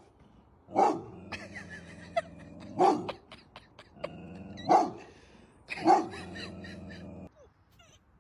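A dog barking: four loud single barks a second or two apart, over a steady low hum that stops near the end.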